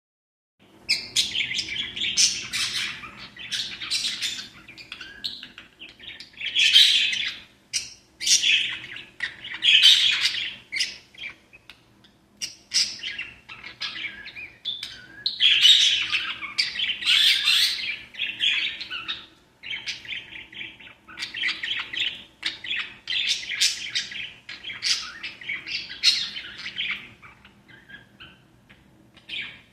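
Pet budgerigars and lovebirds chirping and chattering almost without pause, a busy mix of short calls and squawks that swells and eases in bursts.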